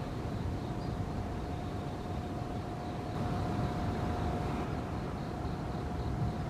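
Steady low outdoor rumble with a faint continuous tone held throughout and a few faint high ticks.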